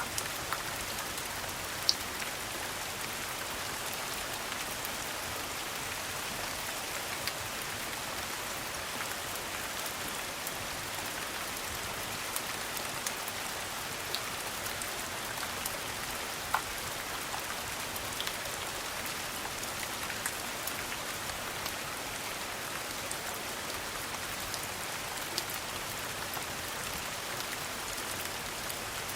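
Steady rain falling on a hard surface, an even hiss with scattered sharp clicks and pops throughout.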